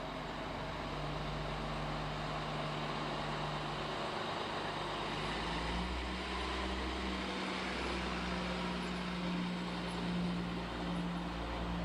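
Street traffic with a vehicle engine running: a steady low hum that deepens and grows stronger about five seconds in.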